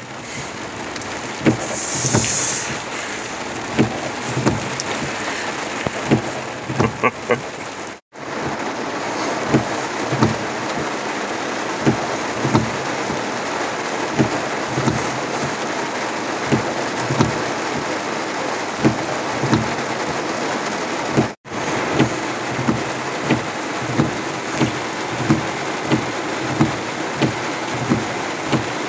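Steady hiss of heavy rain on a car's roof and windshield, heard from inside the car, with frequent soft knocks that settle into a regular beat near the end.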